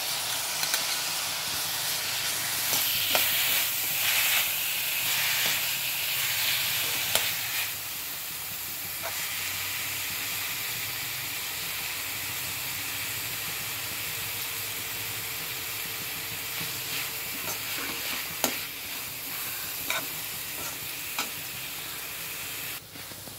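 Diced vegetables sizzling in hot oil in a kadai, stirred with a steel slotted spoon that now and then clinks against the pan. The sizzle is strongest for the first several seconds as chopped tomatoes go into the pan, then settles to a steady frying hiss.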